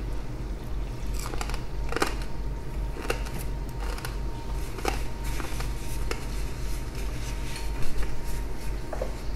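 Crisp crunches of someone chewing crispy pork belly crackling, irregular and a second or so apart, over a steady low hum.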